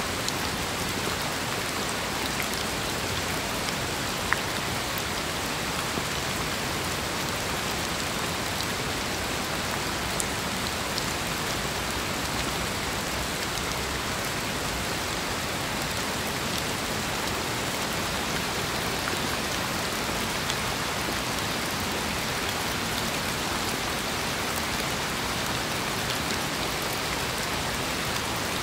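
Steady rain falling, with single drops ticking sharply now and then, the loudest about four seconds in.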